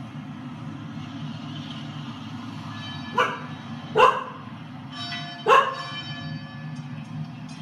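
Chow chow barking, three sharp single barks about a second apart starting about three seconds in. A ringing bell-like chime from the TV sounds under them, the doorbell she is barking at.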